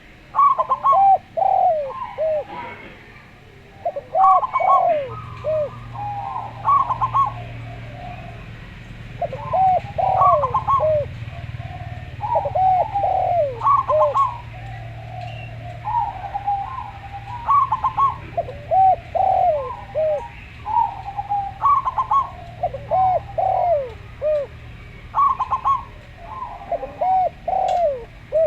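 Zebra dove (perkutut) and derkuku dove cooing, repeated phrases of quick looping coos every two to three seconds. A faint steady low hum runs underneath from about five seconds in.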